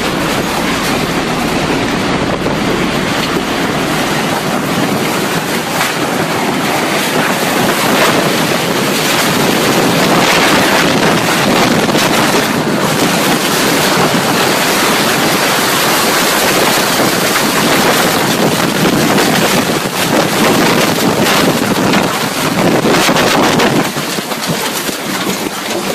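Tornado winds blasting over the microphone: a loud, continuous rush of wind noise that flutters with the gusts.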